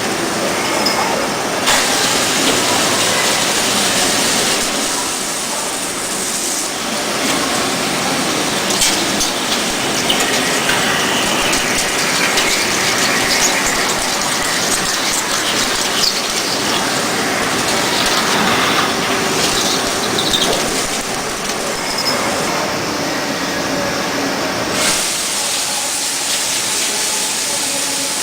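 DAMA HDC 1640 high-speed CNC drilling machine drilling metal: a steady, dense rush of cutting noise with many small clicks and faint wavering whines.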